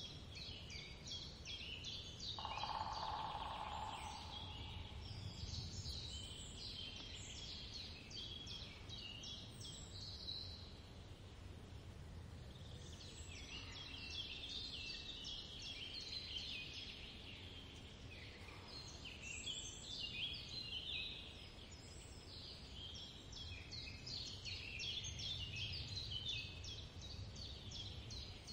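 Small birds chirping in dense, continuous twittering clusters, with a short steady tone about three seconds in.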